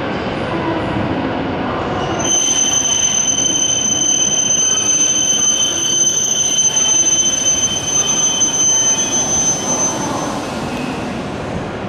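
Shinkansen train running at the platform with a steady rumble. About two seconds in, a high-pitched squeal starts abruptly, holds steady for roughly eight seconds and then fades out.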